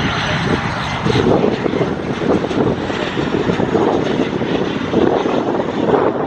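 A fixed-wing aircraft's engines running, heard as a steady, loud rushing drone with a faint high whine above it.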